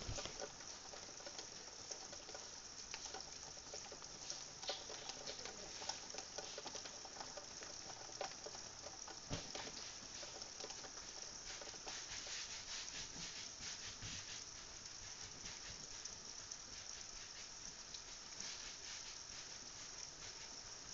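Light rain pattering, a soft steady hiss with scattered small drop ticks.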